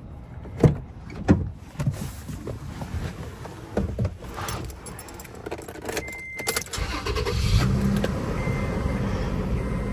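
Knocks and a jangle of keys, a short electronic beep, then the 2012 Toyota Tacoma's engine starts about seven seconds in and keeps running steadily. This is the neglected truck being started to see whether it will run.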